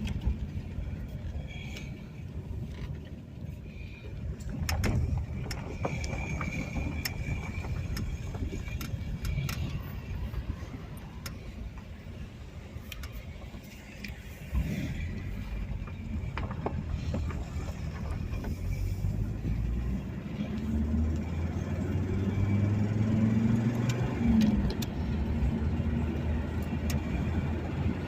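A car driving on the road, heard from inside: steady engine and road rumble, with the engine note rising and falling about two-thirds of the way through as the car speeds up.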